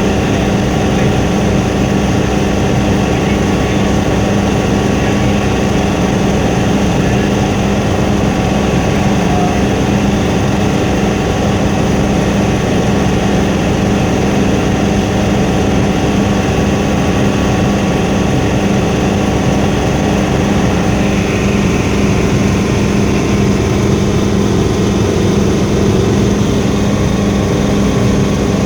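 Helicopter in flight heard from inside the cabin: the steady, loud drone of the engine and rotors, with several constant tones over a dense rushing noise.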